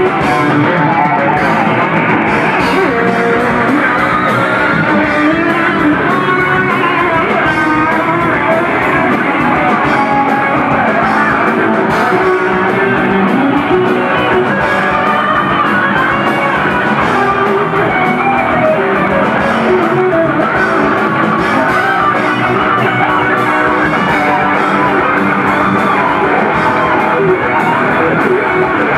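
Live thrash metal band playing: distorted electric guitars over bass and a steadily pounding drum kit, with a wavering lead line in the middle range.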